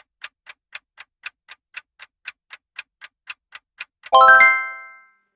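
Quiz countdown timer sound effect: a clock ticking about four times a second, then a bright chime of several notes about four seconds in that rings out and fades within a second, marking the end of the answer time.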